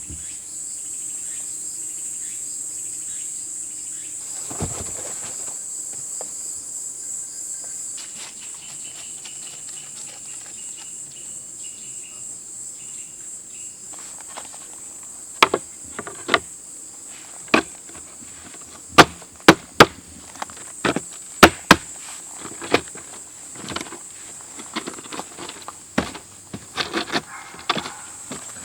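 Insects chirring steadily and high in the forest. From about halfway there is a series of sharp, irregular knocks.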